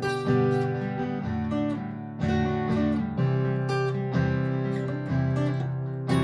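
Martin GPCPA4 acoustic guitar strummed and plucked through a looper, with layered loops of chords and an improvised line on top. Fresh strums land about once a second.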